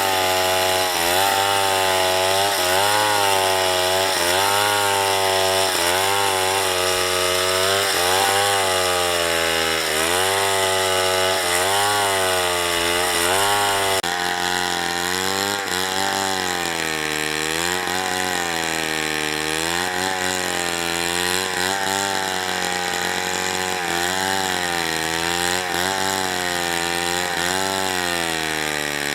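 Two-stroke chainsaw cutting wood, its engine pitch repeatedly sagging under load and climbing back every second or two.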